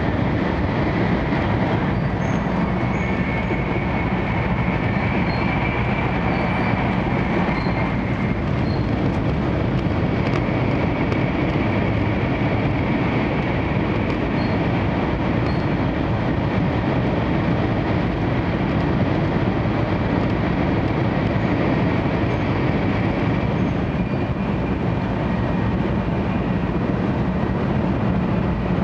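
Steady running noise inside the passenger car of a 700 series 7000 'Rail Star' Shinkansen: an even rumble of wheels and air at speed, with a faint high tone above it.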